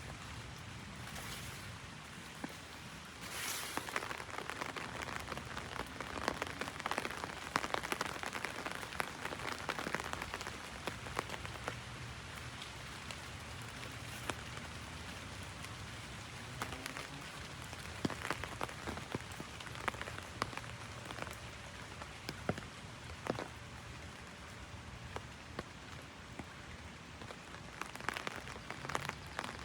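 Heavy rain drumming on an umbrella: a steady patter with many sharper individual drop hits scattered through it.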